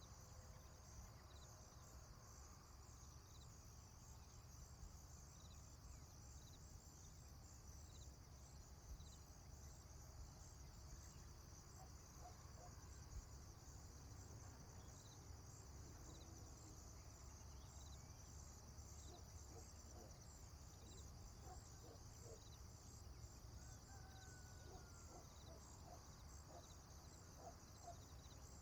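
Faint farmyard morning ambience: crickets chirping steadily with a low steady rumble beneath, and chickens clucking in short notes, more often in the second half. A single short bird call glides in pitch near the end.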